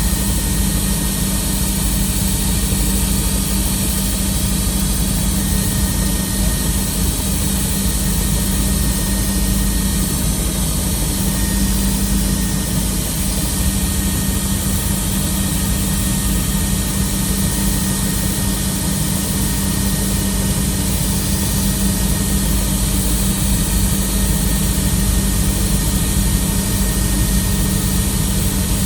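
Helicopter turbine engine and rotors running steadily in flight, heard from inside the passenger cabin: a constant deep hum with a thin steady whine and a high hiss over it.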